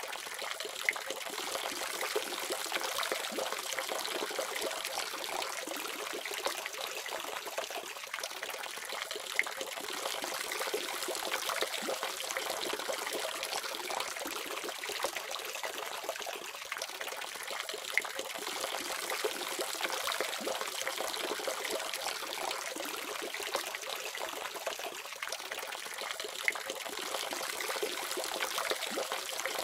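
Water running steadily from a faucet, splashing and trickling, with small irregular spatters.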